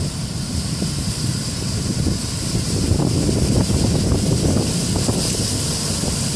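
Strong wind buffeting the microphone over the steady rush of heavy ocean surf, the gusts swelling a little in the middle.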